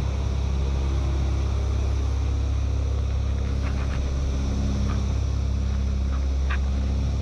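Steady low drone of a light aircraft's piston engines heard from inside the cabin, with a few faint short high blips in the middle.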